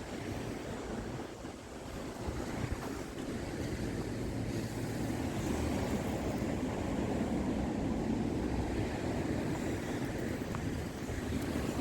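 Wind buffeting the microphone over the steady wash of waves on a beach, a little louder after the first few seconds.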